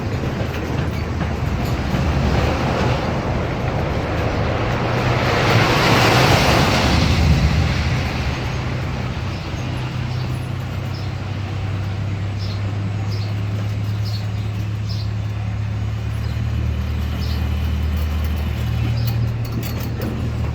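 Amusement-park train running, its engine giving a steady low drone. A broad rush of noise swells and fades about five to eight seconds in, and faint light ticks come later.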